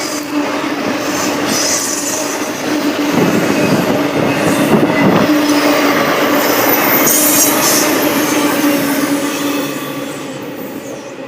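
Norfolk Southern freight train rolling past, its steel wheels on the rails making a continuous rumble with brief high-pitched wheel squeals. The sound eases off near the end.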